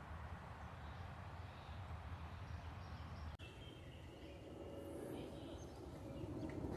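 Outdoor ambience of steady low rumble with faint bird calls. The sound drops out for an instant about halfway, and thin high chirps follow in the second half.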